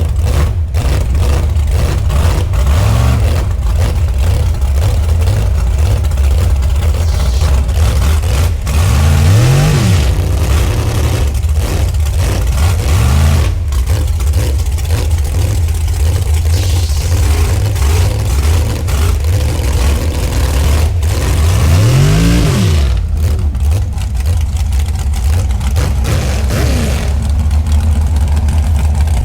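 Truck engine running hard under load, revving up and back down twice, about a third of the way in and again near three quarters, with scattered knocks and rattles over the steady drone.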